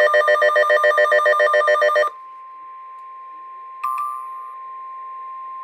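NOAA Weather Radio alert signal: a loud, rapidly pulsing electronic data screech (the SAME digital header) that cuts off about two seconds in, followed by the steady, quieter 1050 Hz warning alarm tone that announces a warning. A short click sounds about four seconds in.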